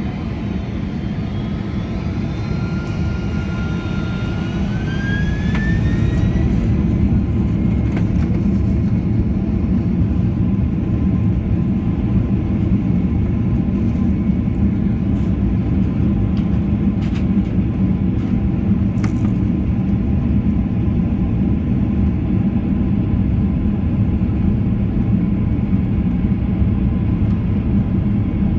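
Jet airliner's engines spooling up to takeoff power: a whine rises in pitch over the first several seconds as the roar builds. Then the engines hold a steady loud roar with rumble, and a few sharp rattles come through.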